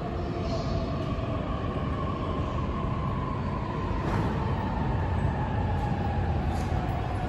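JR East E531-series electric commuter train coming into the platform and slowing, with a low rumble and a whine that falls slowly in pitch as it brakes.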